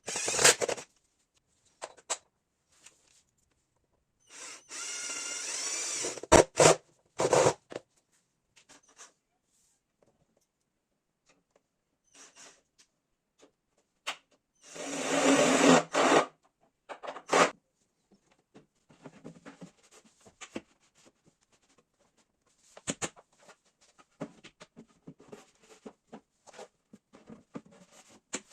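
Power drill running in two short runs of about two seconds each, driving screws while a cupboard is assembled, with clicks and knocks from handling the parts in between.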